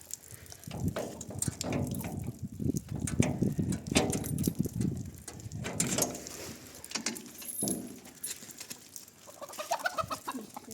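Domestic chickens clucking in a run of short low calls, with a higher pitched call near the end.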